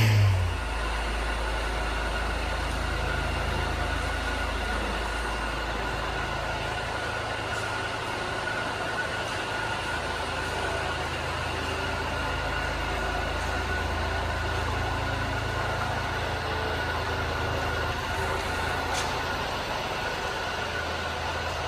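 1997 Honda Acty mini truck's small three-cylinder engine dropping from a rev to a steady idle in the first moment, then idling evenly, with a faint steady whine above the low hum.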